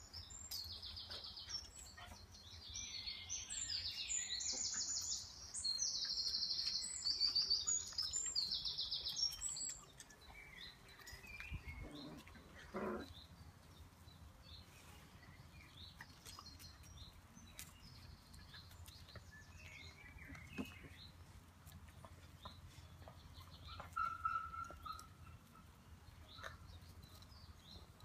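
Wild birds singing: phrases of rapid, high trilling notes follow one another through the first ten seconds, then give way to sparser, softer chirps.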